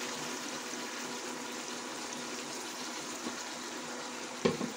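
Steady sizzling of mutton and onions frying in hot oil in a metal pot as a wet tomato, ginger-garlic and green chilli paste is poured in, with a single knock near the end.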